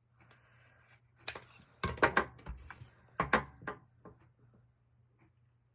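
Scissors cutting through a zipper: a soft rustle of handling, then a few sharp crunching snips about a second, two seconds and three seconds in, followed by lighter clicks.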